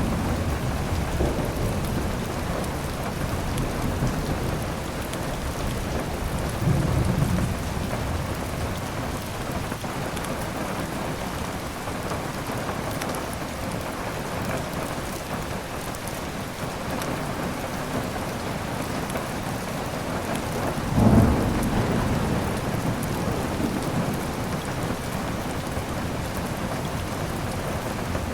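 Steady heavy rain with thunder: a low rumble about seven seconds in and a louder clap with a rolling rumble about 21 seconds in.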